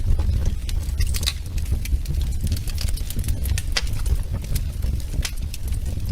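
Wood fire crackling in a fireplace: irregular sharp pops and snaps, several in a few seconds, over a steady low rumble.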